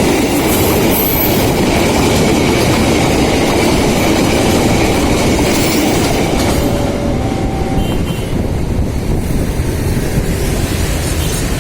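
A train passing over the level crossing close by: steel wheels clattering over the rail joints with the loud rumble of the cars going by, the higher clatter thinning out after about six seconds.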